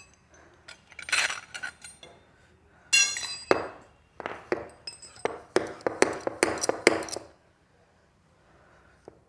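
Metal tools and parts clinking and knocking together, several strikes ringing briefly, with a quick run of sharp knocks between about four and seven seconds in.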